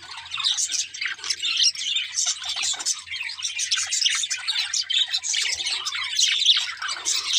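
Several budgerigars chirping and chattering at once, a continuous overlapping stream of short, high notes.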